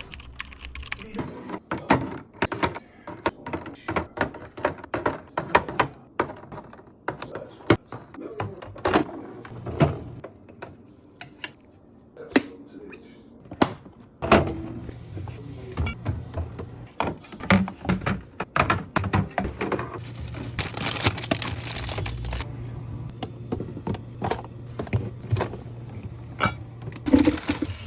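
Containers, bottles and packaging being set down and arranged in a fridge: a steady stream of clinks, taps and thunks. A low steady hum comes in about halfway through, and a brief hiss or rustle a few seconds later.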